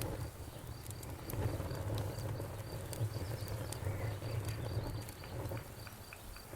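Wood fire burning in a fireplace: a low, uneven rumble of flames with scattered sharp crackles and pops.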